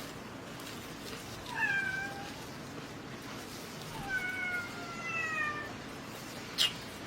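A domestic cat meowing twice, a short falling meow and then a longer drawn-out one, a whiny, complaining sound. A single sharp click comes near the end.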